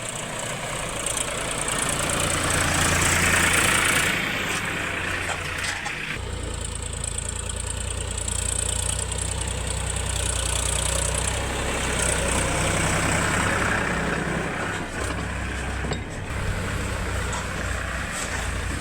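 Heavy diesel machinery engine running steadily, swelling a little a few seconds in, with an abrupt change in its sound about six seconds in.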